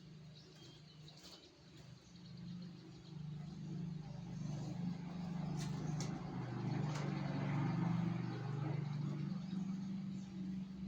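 A low, steady engine-like drone that grows louder through the middle and then eases. A few faint high chirps come in the first second or so, likely from the young sogok ontong (little spiderhunter).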